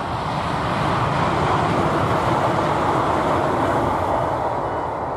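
Siemens Class 350 Desiro electric multiple unit passing at speed: a steady rush of wheel-on-rail and air noise that swells about a second in and eases off toward the end.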